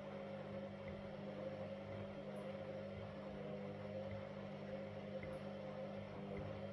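Washing machine running: a steady motor hum with a slightly wavering whine above it.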